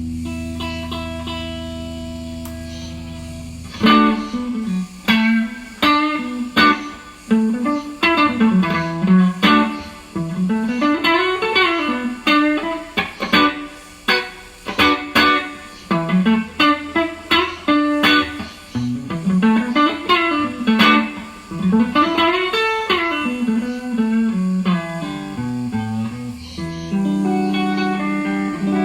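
Guitar playing alone: a held chord for the first few seconds, then quick plucked notes running up and down in arpeggios, settling back into a held chord near the end.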